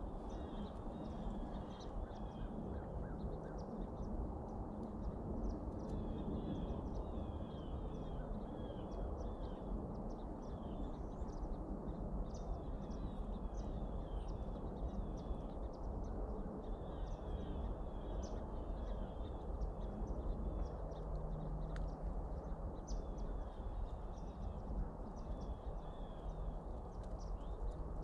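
Birds calling in repeated bursts of short high chirps every few seconds, over a steady low rumble of outdoor noise.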